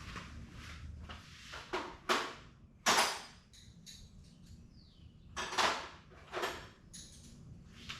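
Metal hand tools and bolt hardware clinking and clanking: about six sharp, separate knocks, the loudest about three seconds in.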